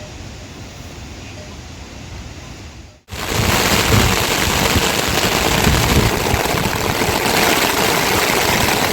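Heavy monsoon rain, a loud, dense, steady hiss that cuts in abruptly about three seconds in, after a quieter stretch of low steady background noise.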